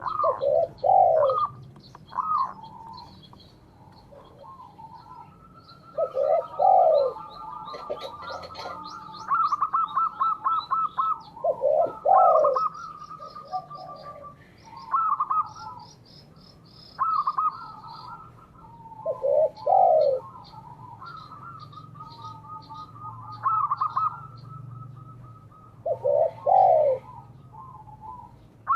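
Spotted doves and zebra doves cooing, a deep coo phrase coming back about every six to seven seconds alongside quicker trilling coos, with thin high chirps from smaller birds throughout.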